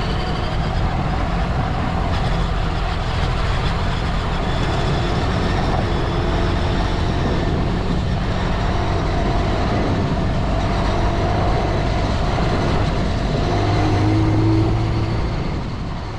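Dirt bike engine running on the move, its pitch rising and falling with the throttle, fading off near the end.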